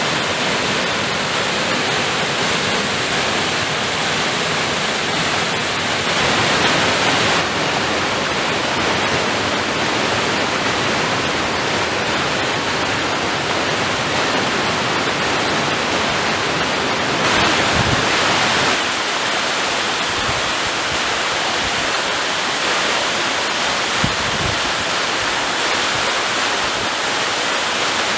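Waterfall on a mountain stream: a steady, loud rush of falling water. Its tone and level shift a little a few times, around six seconds in and again near the middle.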